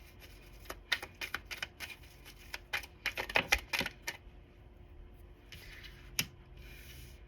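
Cards being handled: a quick run of sharp clicks and taps over a few seconds, then a lone click and soft rustling.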